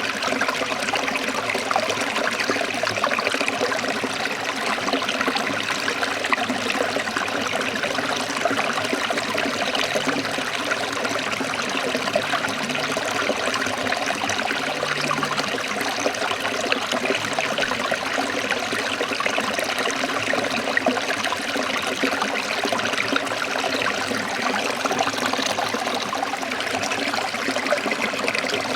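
Forest stream trickling and splashing steadily over rocks, an even rush of running water.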